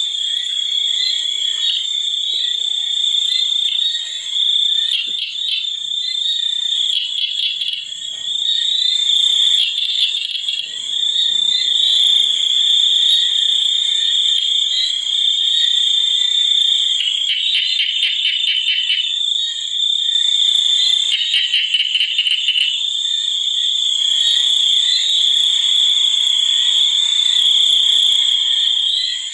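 Nature chorus of frogs and insects: a steady, shrill high-pitched drone throughout, with rapid pulsed frog calls breaking in twice in the second half.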